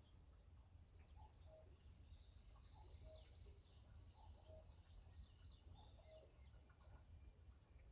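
Faint birdsong: small birds twittering high, with a short lower call repeating about every second and a half, over a low steady rumble.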